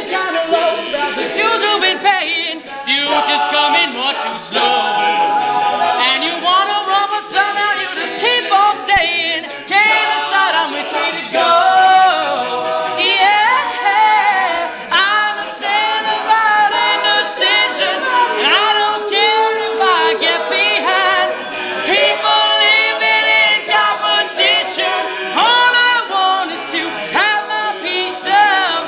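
Male a cappella group singing, a lead voice over the group's backing vocal parts, with no instruments.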